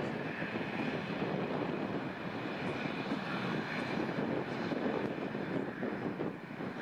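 Airliner engines running at London City Airport: a steady, dense rushing noise with a faint high whine over it.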